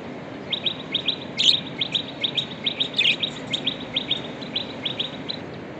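Budgerigars chirping: a run of short, high chirps, three or four a second, with two louder calls among them, stopping about five seconds in. A steady hiss runs underneath.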